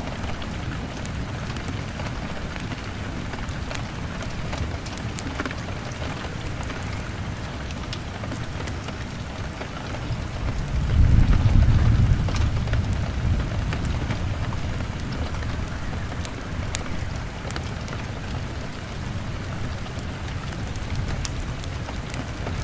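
Steady rain pattering on a window glass, with scattered small crackles from a wood fire. About halfway through, a low rumble of distant thunder swells and slowly fades.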